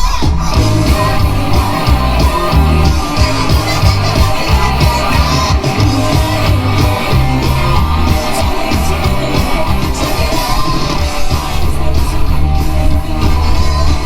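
Live rock band playing, with a woman singing over electric guitars, bass guitar, cello and drums.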